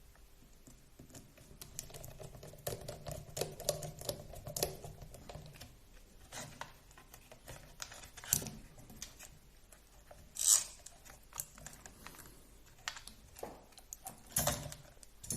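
Small hard plastic and metal RC car parts clicking and tapping as they are handled and fitted by hand, with one louder scrape about ten seconds in. A low hum sits under the clicks for a few seconds near the start.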